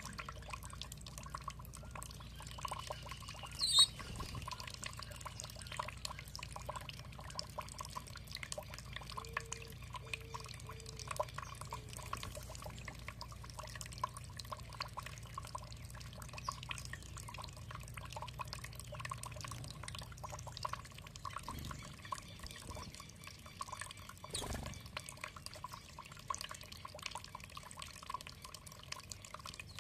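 Water dripping and trickling, a steady patter of small drops. A brief, sharp high-pitched sound stands out about four seconds in, and a low hum underneath stops about two-thirds of the way through.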